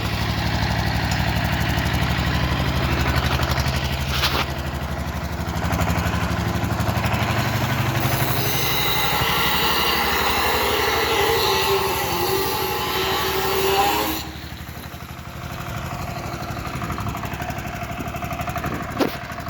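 An engine running steadily, like a motorcycle's, with wavering higher tones over it for a few seconds midway. It gets quieter about two-thirds of the way in.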